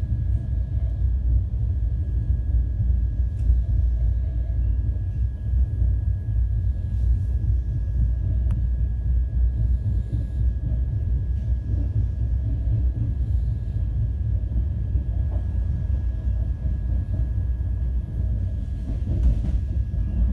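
Indian Railways passenger train running, heard from inside a coach: a steady low rumble of the wheels on the track, with a faint steady high whine over it.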